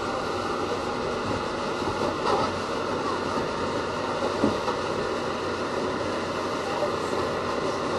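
R68 subway car running on the rails, heard from on board: a steady rushing rumble of wheels and running gear, with a couple of faint knocks.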